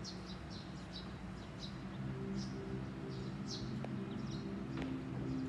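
Small birds chirping outdoors: many short, quick high chirps throughout, over a low steady hum.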